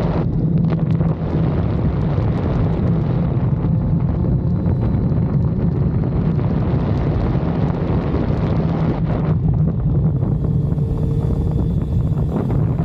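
Honda CBR600F4i's inline-four engine running at a steady pitch on the move, with wind rushing over the microphone.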